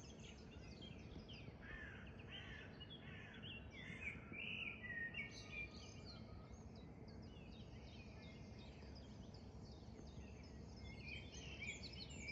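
Faint outdoor birdsong: scattered chirps and short warbling phrases, busiest a couple of seconds in and again near the end, over a low steady background rumble.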